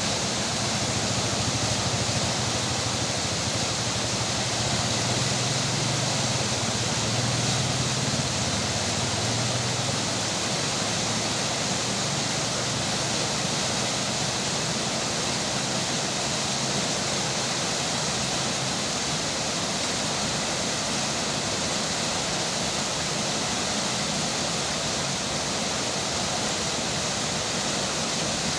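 Rain and a river's flowing water making a steady, even rush, with a faint low rumble underneath for about the first ten seconds.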